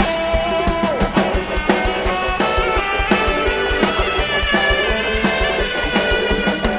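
Live Isan (northeastern Thai) band music: a drum kit keeps a fast, steady beat under guitar and melody instruments.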